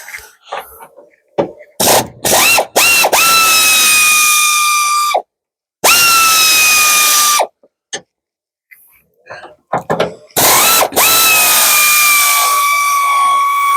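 Pneumatic wrench run off a compressor, undoing suspension bolts in a series of bursts. Each burst is a high whine that rises as the tool spins up, then sags slightly under load. The last burst near the end runs the longest.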